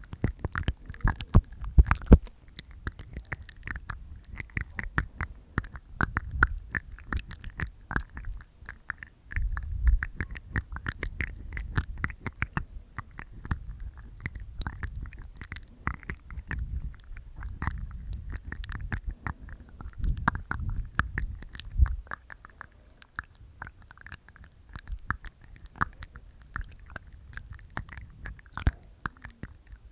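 Close-miked ASMR mouth sounds made inside the mouth: wet tongue clicks and teeth taps, a dense run of quick clicks with occasional heavier low thumps.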